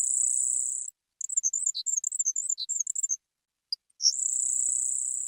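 Grasshopper sparrow singing: two thin, very high, insect-like buzzes, the second opened by a short note, with a run of quick, jumbled high notes between them.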